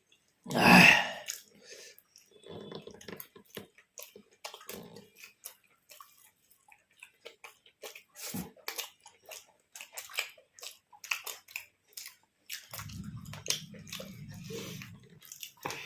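Close-up eating sounds: many short wet clicks of chewing and mouth smacking through the whole stretch. There is a loud sudden burst about a second in, and a low hum from about three seconds before the end.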